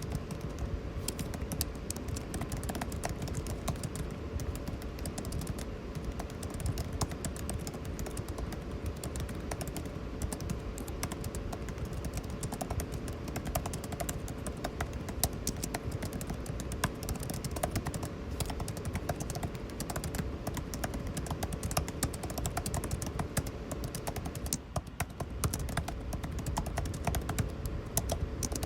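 Continuous typing on a computer keyboard, a rapid irregular patter of key clicks, over the steady hum and rush of air conditioning.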